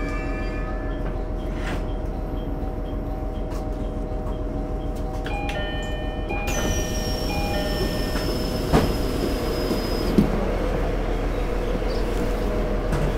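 Inside a GV-E400 series diesel-electric railcar: steady humming and whining from its equipment. Partway through, a high whine sets in and slowly falls in pitch, and two sharp clicks follow a few seconds later.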